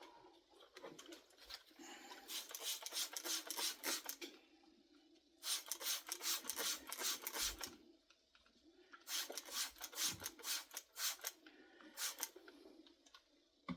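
Quick rasping strokes of a tool rubbing or scraping against leather, in three bursts of a few seconds each with short pauses between, and a brief fourth burst near the end.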